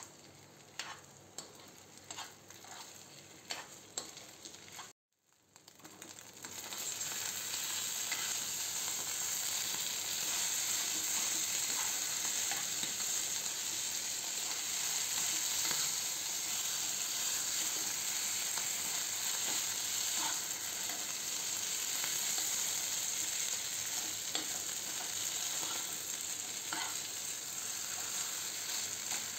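Mashed boiled potatoes frying in ghee in a non-stick pan, stirred and scraped with a steel spoon. There are a few spoon clicks and scrapes at first, a brief gap about five seconds in, then a steady sizzle with an occasional knock of the spoon.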